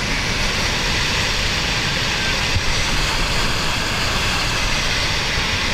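Steady, loud rushing roar of a mud flow of water and rocks pouring down a channel.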